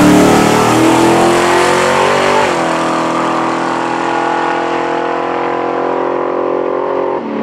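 Big-block Chevy V8 (476 cubic inches) in a 1962 Corvair at full throttle on a drag run. The pitch climbs, drops sharply about two and a half seconds in at a gear change, then climbs again as the car pulls away. The sound grows duller with distance, and there is a brief break near the end.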